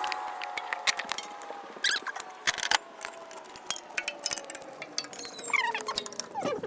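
Irregular metallic clicks and clinks of a hand wrench working on an alternator mounting bolt in an engine bay. A few squeaky chirps come near the end.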